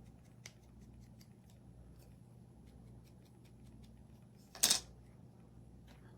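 Light handling noises from craft work on a table: faint scattered clicks and taps, with one short, louder rustle or scrape about four and a half seconds in.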